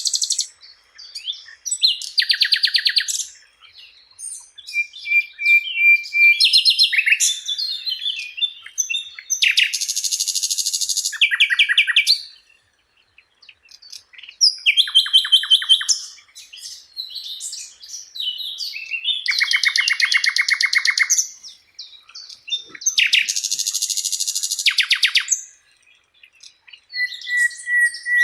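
Sikatan Londo flycatcher singing: a series of high, fast trilled phrases of about two seconds each, with short chirps and whistled notes between them and brief pauses.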